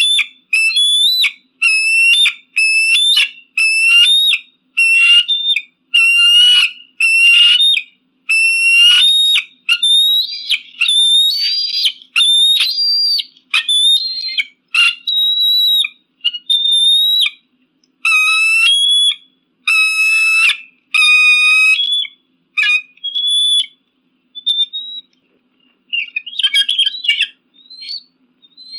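An eagle calling over and over: high, piercing whistled calls, about three every two seconds, each with a quick rise and fall in pitch. After about twenty seconds the calls come less often, with a jumbled cluster of notes near the end.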